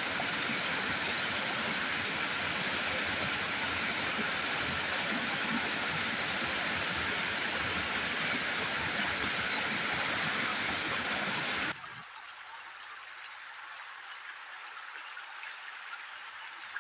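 Steady rushing water, a dense even noise that cuts off abruptly about twelve seconds in, giving way to a quieter, softer water sound.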